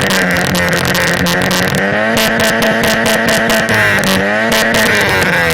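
Tofaş Doğan SLX car engine revved through a Varex valved exhaust: the revs climb about two seconds in, hold, drop, then rise briefly again and fall near the end, with sharp crackles running through the exhaust note.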